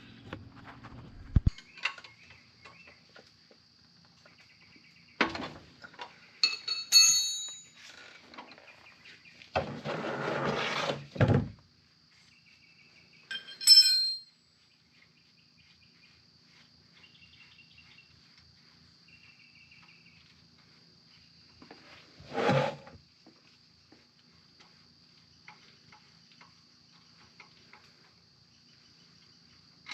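Crickets chirring steadily in a thin, high drone, while work goes on around the car: a few sharp, ringing metal clinks of tools, a second or two of scraping noise about ten seconds in, and a single thump a little past twenty seconds.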